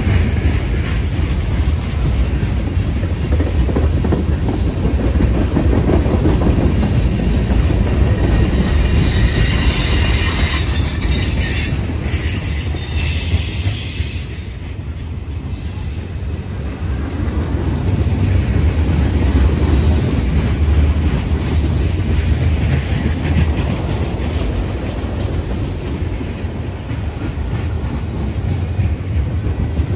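A train passing, a steady low rumble of wheels on rails with high-pitched wheel squeal for a few seconds near the middle.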